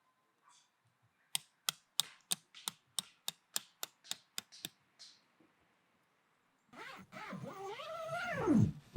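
A run of about a dozen sharp clicks, roughly three a second, then a long whining animal cry that wavers and falls in pitch near the end.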